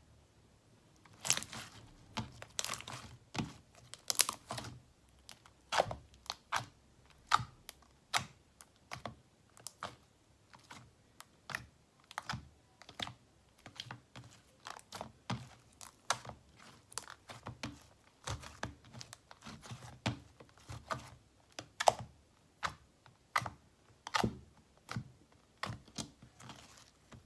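Slime being squeezed and stretched by hand, making irregular sharp clicks and pops, about one or two a second.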